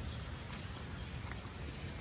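Footsteps of someone walking outdoors, a few soft steps, over a steady high-pitched hiss of outdoor ambience and a low rumble.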